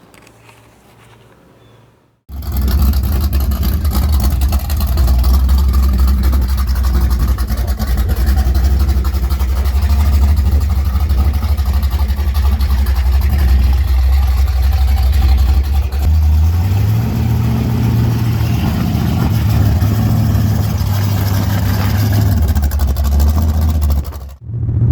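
Car engine running steadily under way as a loud, low drone. It steps up in pitch about two-thirds of the way through and cuts off suddenly near the end. It starts abruptly after a couple of seconds of faint quiet.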